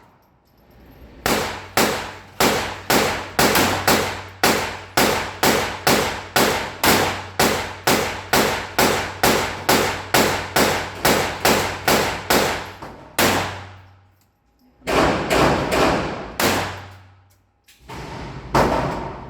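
Taurus TX22 .22 LR semi-automatic pistol firing a rapid string of shots, about two a second for some twelve seconds, then a short pause and a few more shots.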